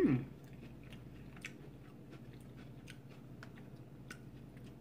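A person chewing a mouthful of raw-vegetable nachos, with faint crisp crunches and small clicks scattered throughout.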